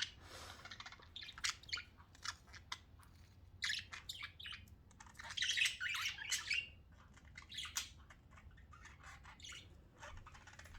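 Pet budgerigars chirping and chattering in short, scattered high calls, with a busier run of chirps about halfway through.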